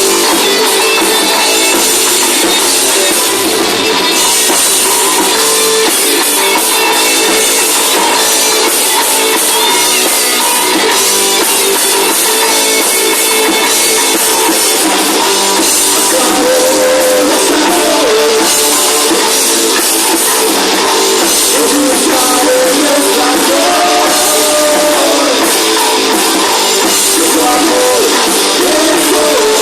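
Rock band playing live, with drum kit prominent. The recording is thin, with little low end.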